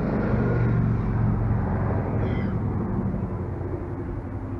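A motor vehicle's engine running nearby, a steady low hum that slowly fades. There is a brief high squeak a little over two seconds in.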